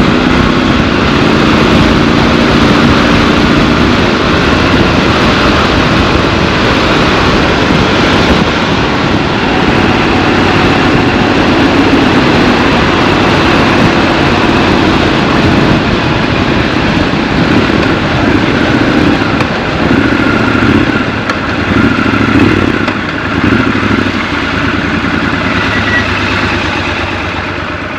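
Triumph Scrambler 1200 XC's 1200 cc parallel-twin engine running under way, heard from the rider's seat. The engine note is loud and steady, with uneven swells of throttle past the middle, and the sound fades out near the end.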